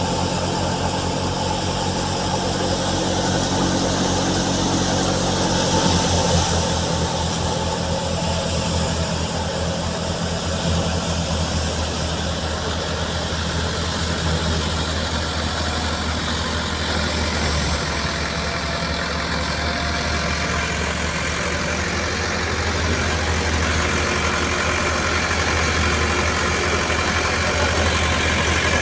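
Tractor engine running steadily under load while driving a wheat thresher, with the steady rushing noise of the threshing machine above the engine note. The engine's low note shifts slightly about six seconds in.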